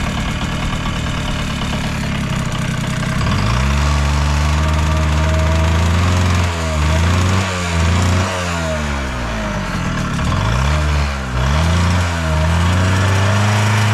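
Yamaha YB-1's two-stroke single-cylinder engine idling, then revved with several quick throttle blips from about three and a half seconds in, the pitch rising and falling each time. It revs up cleanly with no abnormal noise.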